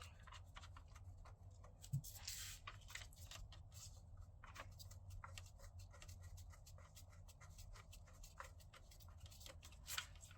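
Socket ratchet clicking in quick, faint runs of ticks as intercooler hold-down bolts are run down, with a brief scrape about two seconds in over a low steady hum.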